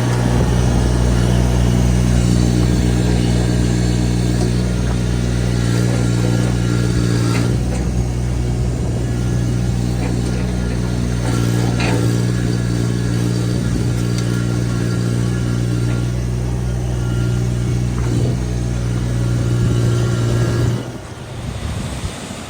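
A vehicle engine running at a steady speed, holding one even hum, then dropping away sharply about twenty-one seconds in.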